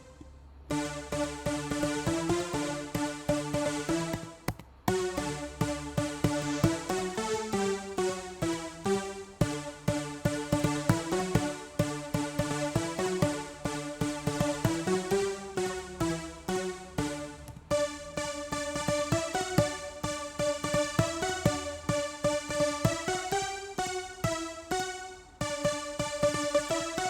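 Pulse-width-modulated square-wave patch on the Sylenth1 software synthesizer playing a stepping melodic sequence of rapid notes, briefly stopping about five seconds in.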